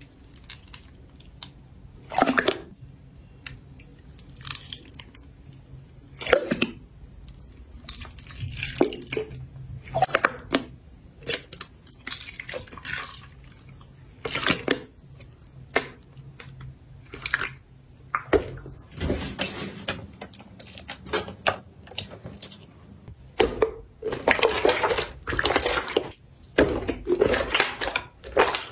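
Slime being squeezed and poked by hand: irregular wet squelches and sticky pops, coming thicker and faster over the last few seconds.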